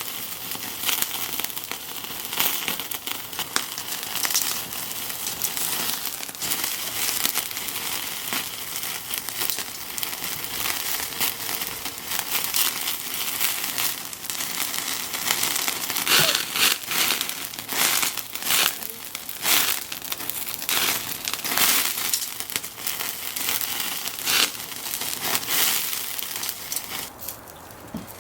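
Steady crackling and sizzling from the charcoal grill and wood fire: a continuous hiss of small pops with sharper, louder snaps through the second half.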